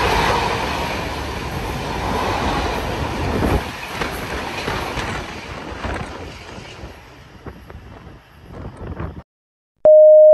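Freight train wagons rolling past, their rumble and wheel clatter fading away over several seconds as the tail of the train leaves. The sound cuts off suddenly, and near the end a loud steady electronic tone begins: the first note of a station announcement chime.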